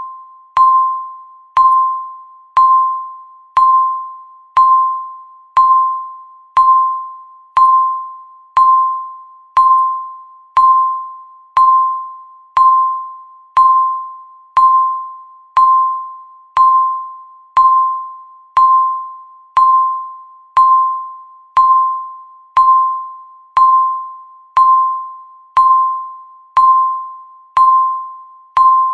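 Countdown timer's tick sound: a short, bright ping near 1 kHz struck once a second, each fading quickly, in a steady even rhythm.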